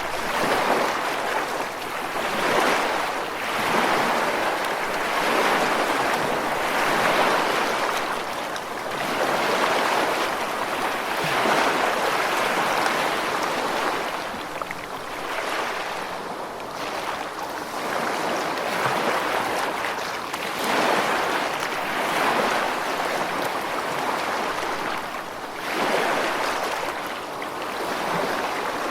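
Ocean surf: waves breaking and washing in a continuous rushing hiss that swells and falls back every two to three seconds.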